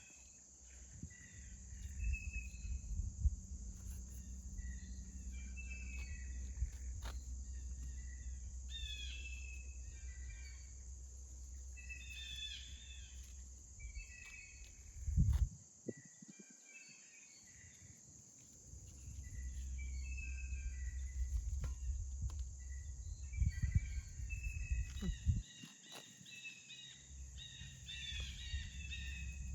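Many songbirds chirping and singing over one another, with short repeated phrases throughout, over a steady high insect buzz. A low rumble comes and goes underneath, with a few sharp clicks.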